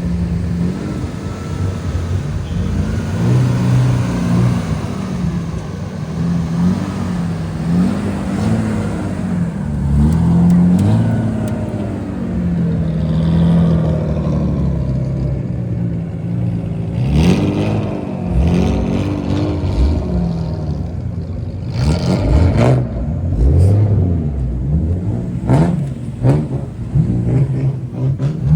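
Toyota Soarer GX51's straight-six exhaust revving repeatedly while stationary, the pitch swelling and falling with each press of the throttle. In the second half the throttle is blipped in quick, sharp stabs.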